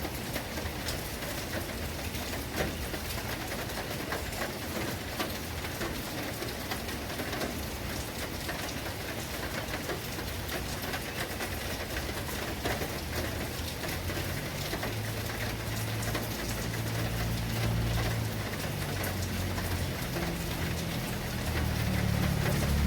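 Steady heavy rain falling, a dense patter of drops. A low rumble builds in over the last several seconds and grows louder toward the end.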